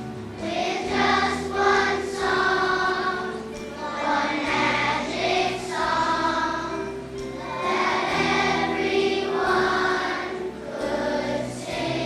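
A children's choir singing in unison, phrase by phrase, over instrumental accompaniment.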